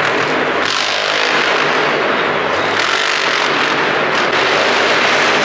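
Monster truck's supercharged V8 engine running hard at high revs, a loud continuous mechanical noise.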